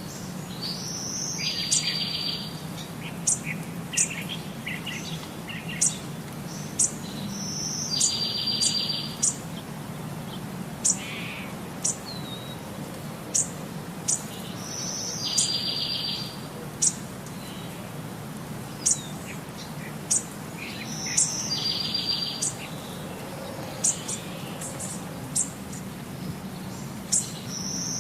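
Bird singing: a repeated phrase about every six or seven seconds, a high note followed by a buzzy trill lasting about a second, with short sharp high chirps in between. A steady low hum runs underneath.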